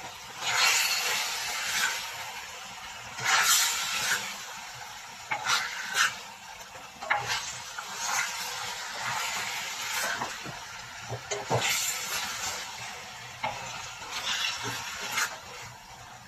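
Chicken pieces in oyster sauce frying in a pan while being stirred and turned with a plastic spoon: bursts of sizzling and scraping every second or two, with a few sharp knocks of the spoon against the pan.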